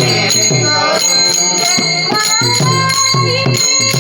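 Marathi abhang devotional music: small hand cymbals ring on a steady beat over drum strokes, with a held melodic line coming in about halfway through.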